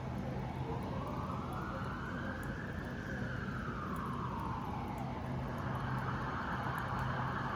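Emergency vehicle siren in a slow wail, its pitch rising and falling in long sweeps of about five seconds, growing a little louder near the end.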